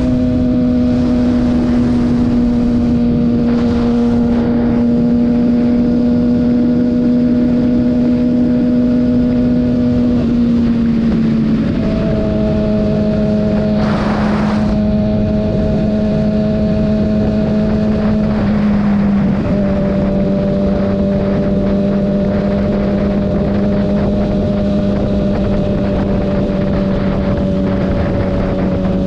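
Kawasaki ZX-6R's inline-four engine running steadily at cruising revs under way, with a rush of air noise around it. The engine note drops a little twice, about a third and two-thirds of the way through, and short surges of air noise come twice.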